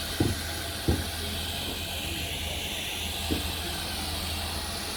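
Steam locomotive hissing steadily, with a low hum under it and three dull knocks: two in the first second and one a little after three seconds in.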